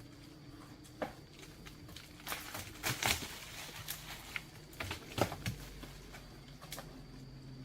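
Irregular light knocks, scrapes and crackles, a few scattered and a cluster of them about three seconds in, like close handling of sticks, leaves or soil.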